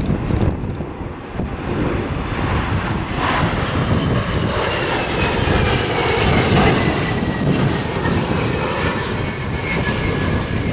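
Jet aircraft flying past with a steady rushing roar, its engine whine falling slowly in pitch as it goes by.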